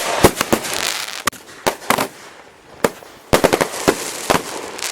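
Consumer multi-shot firework cakes firing: irregular sharp bangs with crackling between them, and a quick run of reports about three and a half seconds in.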